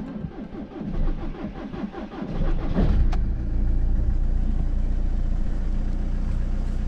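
Volkswagen car's starter cranking the engine for about two and a half seconds before it catches, picks up briefly and settles into a steady idle. The slow start after a night's standing is the sign of a run-down battery.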